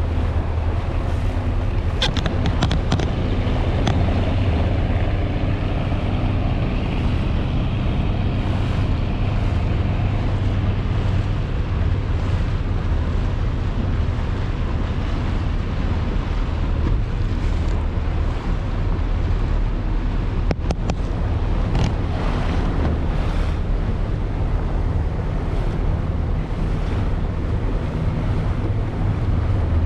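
Engines running with a steady low drone, heard with wind buffeting the microphone and water noise, plus a few brief knocks.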